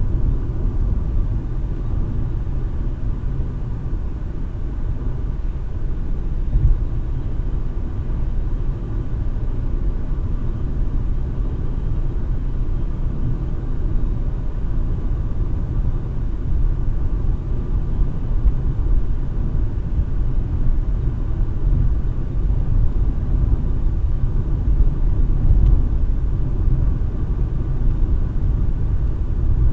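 Steady rumble of a car's engine and tyres on the road, heard inside the cabin through a dash cam's microphone while driving.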